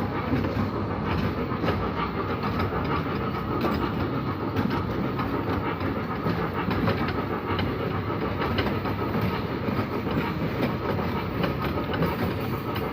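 Children's ride train running along its track: a steady rumble of wheels and cars with light clicking and rattling.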